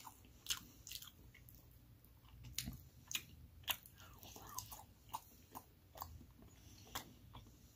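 Close-up chewing and biting of a mouthful of meatloaf, with scattered short sharp clicks from the mouth and a metal fork scooping against the plate.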